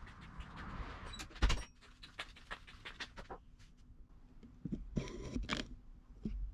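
Scattered light clicks and knocks, with one louder knock about a second and a half in and a short cluster of rattles near the end.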